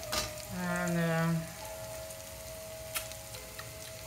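Chinese yam pieces frying in oil and melted sugar in a wok, sizzling steadily, with two sharp taps of a wooden spoon against the wok, the second about three seconds in.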